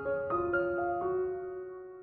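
Background piano music: several notes struck one after another in the first second, then held and slowly fading.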